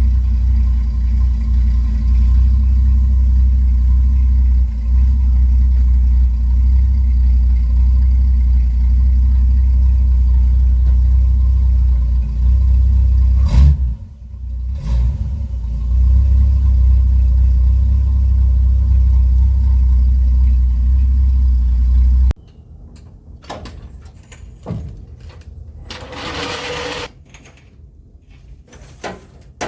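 1967 Chevrolet Bel Air's 350 small-block V8 idling through a new full exhaust: a steady, deep, slightly droney rumble that dips briefly about halfway. Near the end it cuts off abruptly, leaving quieter clicking and mechanical noises.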